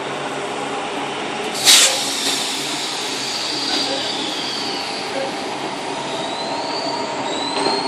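Sydney Tangara electric train rolling out over a crossover, with a sharp bang from the wheels about two seconds in, then thin high-pitched wheel squeal gliding in pitch, twice.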